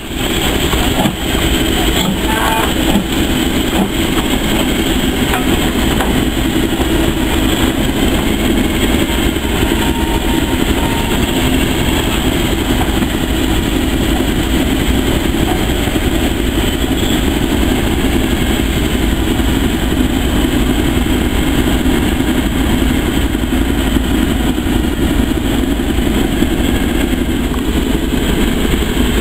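Steady running noise of a train in motion.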